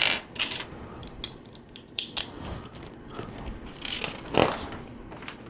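LEGO bricks being handled and pressed together: scattered plastic clicks and clatter, the loudest about four and a half seconds in.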